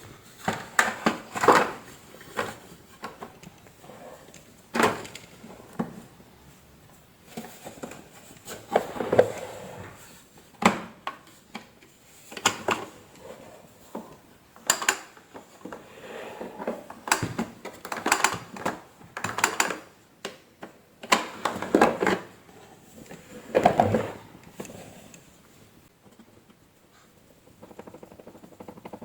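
Hard plastic vacuum cleaner parts and tools being handled during reassembly: irregular clicks, knocks and short rattles, with light scraping between them.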